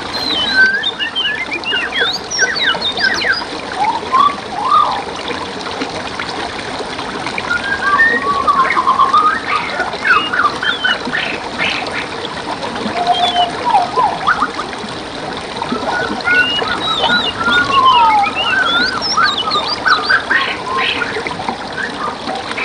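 Several songbirds singing over a steady trickle of running stream water. Quick runs of whistled and chirped notes come in three busy spells, with quieter gaps between them.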